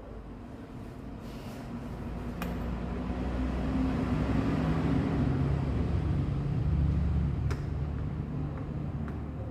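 A motor vehicle's engine going past, a low rumble that grows louder toward the middle and then fades away. Two short sharp clicks sound, one early and one near the end.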